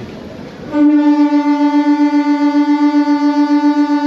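MEMU electric multiple unit's horn sounding one long, loud, steady note as the train departs, starting abruptly about a second in, with a fast flutter in its loudness.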